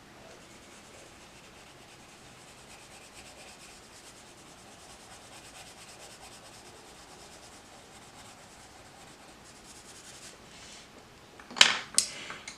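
Colored pencil scratching across paper in short, fine strokes, faint and continuous, as an area is shaded in. Near the end, two sharp clicks.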